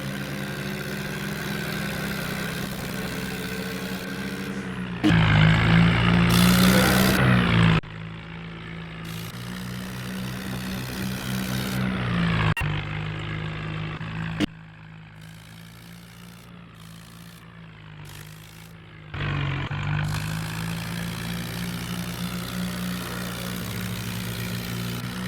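Tractor engines running in a string of short clips. The sound changes abruptly several times. The loudest stretch comes about five seconds in and lasts about three seconds.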